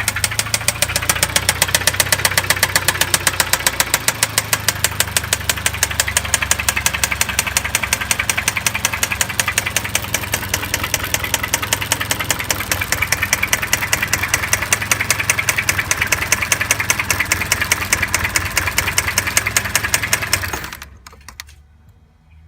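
Hyundai ix35 engine running with an even, rapid knock in step with the engine, the unexplained fault the owner is asking about. The engine shuts off about 21 seconds in.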